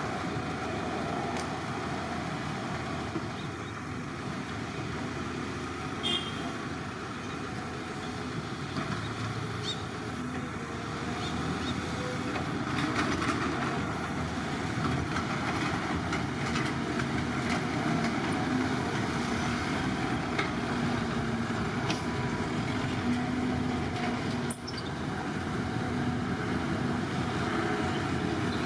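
Heavy construction machinery running steadily, a continuous engine rumble with a few brief sharp knocks, the clearest about three-quarters of the way through.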